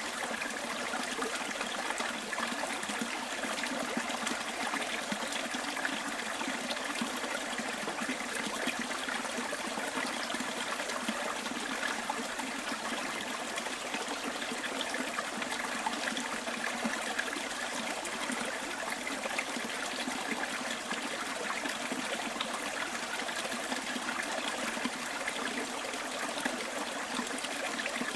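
Small bush stream flowing, a steady, even trickle and babble of running water.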